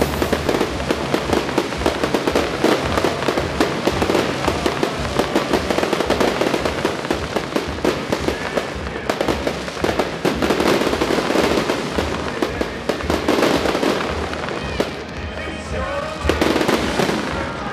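Fireworks display: a dense, continuous run of bangs and crackling from bursting shells, with music playing underneath. There is a short lull about fifteen seconds in before the bursts pick up again.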